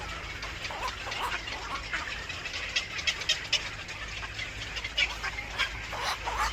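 Birds calling in quick, short chirps and squawks, busiest in the second half, over a steady low hum.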